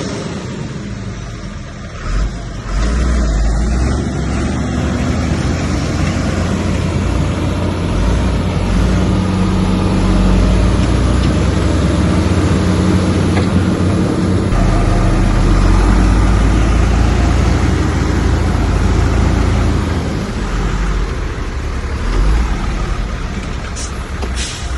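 Heavy diesel engine of earthmoving machinery running hard under load, a continuous low drone that swells louder a few seconds in and eases off near the end.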